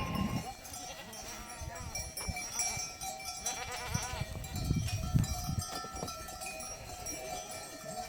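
A flock of goats bleating now and then, with several short calls, over the steady ringing of bells on the animals.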